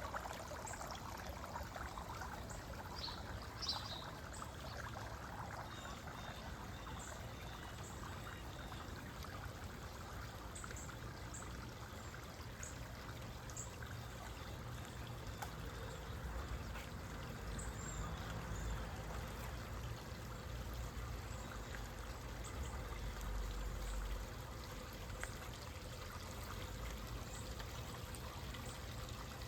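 Water trickling and running steadily, with short high chirps from small birds now and then.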